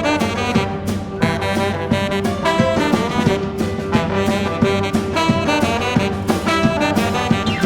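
A live jazz band plays an instrumental intro riff: trombone and saxophone over bass and drums, with regular drum hits.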